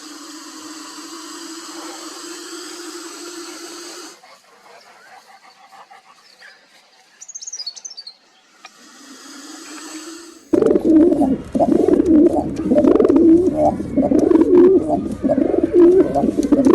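A string of different animal calls: a steady pitched call, brief high bird chirps, then a much louder, rough, wavering animal call from about ten seconds in to the end.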